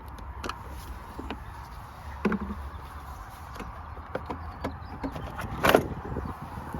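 Scattered clicks and knocks of tools and parts being handled during work on a car, with two louder knocks, one about two seconds in and one near the end, over a steady low hum.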